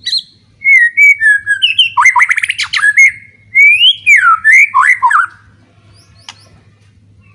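White-rumped shama (murai batu) singing a loud run of whistled phrases, with notes sliding up and down and a quick rattling trill in the middle. It falls silent a little after five seconds in.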